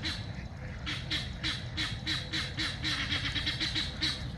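Guinea fowl calling: a rapid, even run of short harsh cackles, about five a second, starting about a second in.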